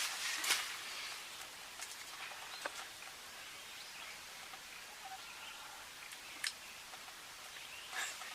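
Quiet outdoor field ambience with faint, brief bird calls and a few short sharp clicks or rustles.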